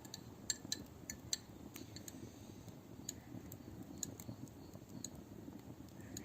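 Wood campfire burning, giving irregular sharp crackles and pops over a low steady rumble.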